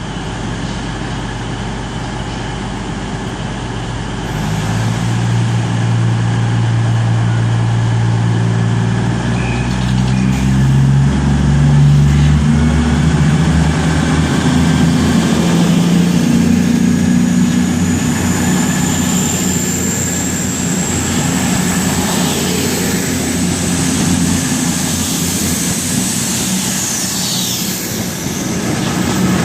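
Nine-coach CrossCountry Voyager diesel-electric multiple unit (a Class 221 and a Class 220 coupled) departing: its underfloor diesel engines run steadily, then open up about four seconds in and keep running under power as the train pulls away. A thin high whine joins in later and fades near the end.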